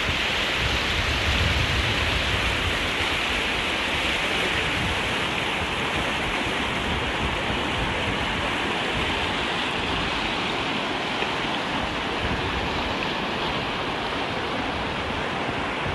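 Steady rushing water, an even hiss that holds at the same level throughout, with some low rumble underneath.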